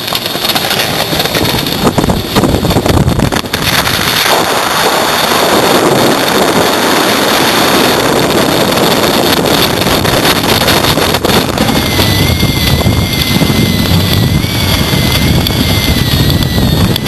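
Thunderstorm wind gusting hard across the microphone, a loud steady rushing noise. In the second half a thin wavering whistle joins in.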